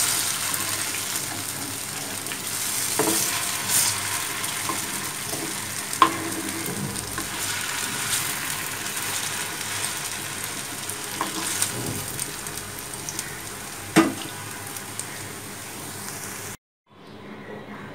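Eggplant fritters sizzling in hot oil in a karahi, with a few sharp clicks and scrapes of a metal spatula against the pan as they are turned. The frying sound cuts off suddenly near the end.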